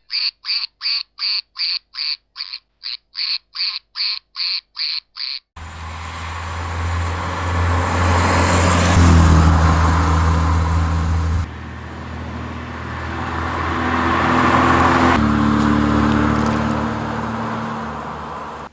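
A run of about fourteen short, squeaky quacks, a little over two a second. About five and a half seconds in, they give way to a Triumph TR7 driving on the road. Its engine note is steady but changes abruptly a few times.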